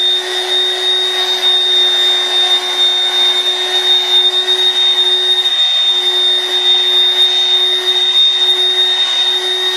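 Corded Dirt Devil handheld vacuum cleaner running steadily while pressed onto car floor carpet, its motor giving a high steady whine over a lower hum and a rush of air; the pitch dips briefly about halfway through.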